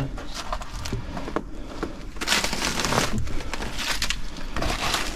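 Crunching and scraping of broken concrete and debris underfoot and under hand as a person squeezes through a narrow gap in rubble, with scattered sharp knocks.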